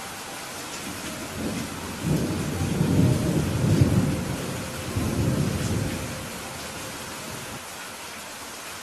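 Steady rain with a roll of thunder: a deep rumble builds about a second and a half in, is loudest around three to four seconds, then fades away, leaving the rain alone.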